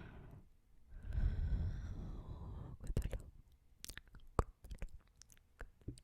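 A person yawning: a long, breathy yawn about a second in, then a scatter of short mouth clicks.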